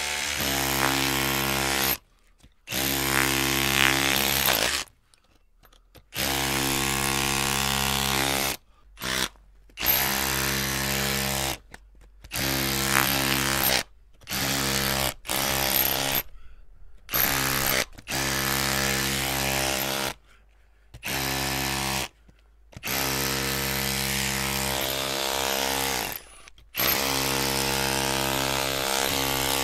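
Electric drill running in bursts, its steady motor whine starting and stopping abruptly about a dozen times, with a few short bursts and some stretches quieter than others.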